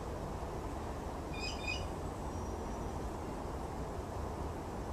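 Outdoor background with a steady low rumble; about a second and a half in, a small bird gives a short double chirp.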